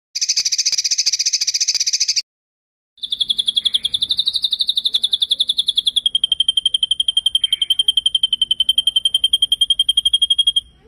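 Songbird masteran trills: a short harsh, buzzy rattle, then after a brief pause a long, fast rolling trill held on one high pitch that steps slightly lower about halfway through.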